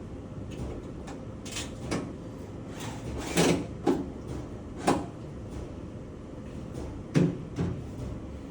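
Knocks and clatters of washing-machine parts being handled during a drain-pump change, about half a dozen sharp strikes with the loudest near the middle and near the end, over a steady low hum.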